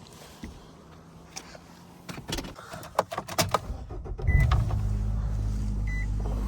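A run of clicks and knocks, then a car engine starting about four seconds in and settling into a steady idle, with a short beep near the end.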